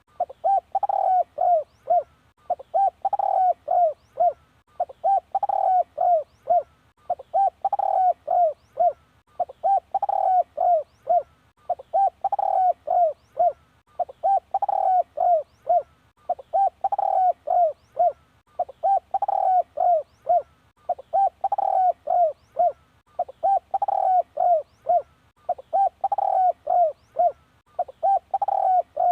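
Spotted dove cooing: the same short phrase of several coos repeats steadily, about every two seconds.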